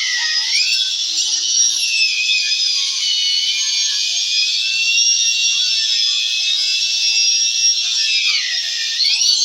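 High-speed electric cutting tool whining as it cuts into the wooden speaker box. Its pitch dips under load just after the start and again near the end, then climbs back.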